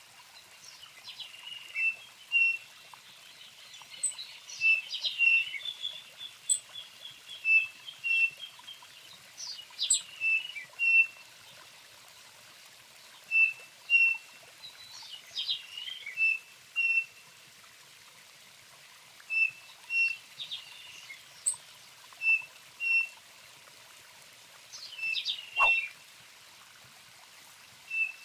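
A songbird singing in repeated phrases of short, clear whistled notes at one pitch, broken by busier twittering bursts, with a quick trill a few seconds in and a sharp downward-sweeping note near the end.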